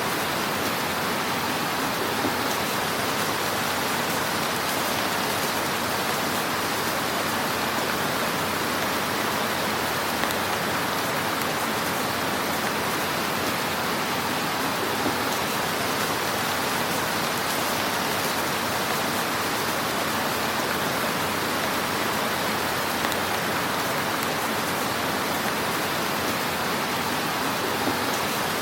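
Wood fire burning in a fireplace: a dense, steady crackle like a hiss, with a few slightly sharper pops now and then.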